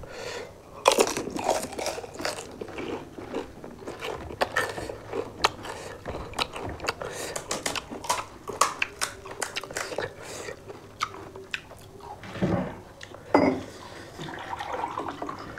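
Crisp panipuri shells crunching and being chewed by two people eating at close range: a dense, irregular stream of small sharp cracks, with a few louder bursts near the end.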